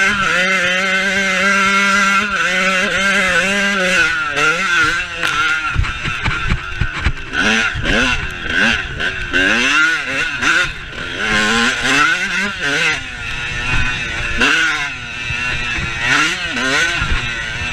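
Motorcycle engine running steadily for a few seconds, then revving up and down repeatedly as it accelerates and shifts, its pitch rising and falling again and again.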